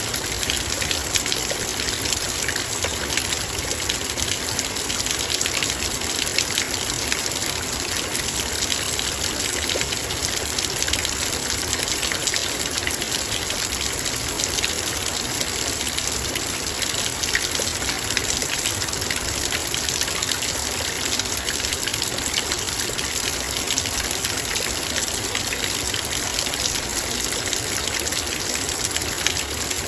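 Heavy rain falling steadily on a metal bowl: a dense, even patter of drops with many fine ticks on the metal, no let-up.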